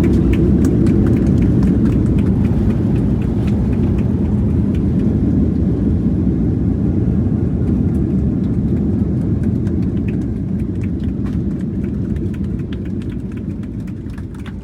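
Airliner cabin noise: a loud, steady low rumble that eases off gradually near the end.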